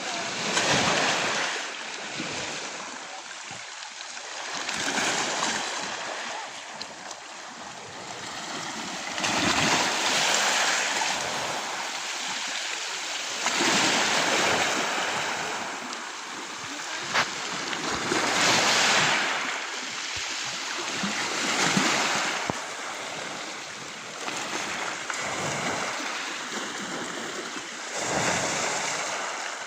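Sea waves breaking and washing on the shore, a rushing surge that swells and falls back about every four seconds.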